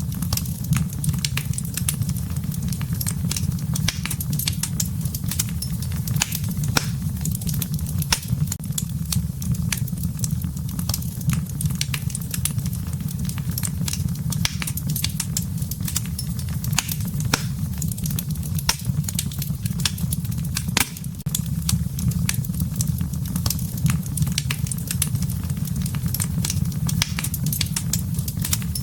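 Wood campfire burning: steady crackling with frequent sharp pops at irregular intervals over a low, steady rumble of the flames.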